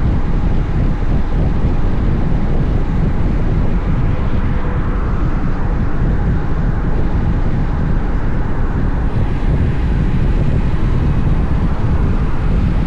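Heavy wind noise buffeting the camera microphone on a moving Honda X-ADV motorcycle, a steady low rumble with the machine's running and road noise mixed in underneath.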